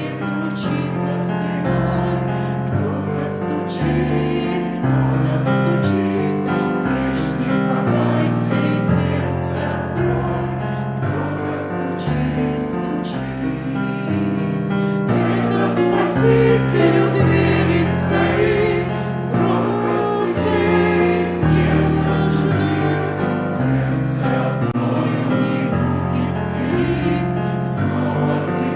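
Russian Christian hymn: singing voices over a keyboard accompaniment of slowly changing chords and bass notes.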